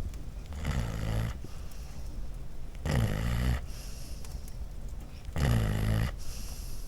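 A sleeping dog snoring: three snores about two and a half seconds apart, each lasting well under a second.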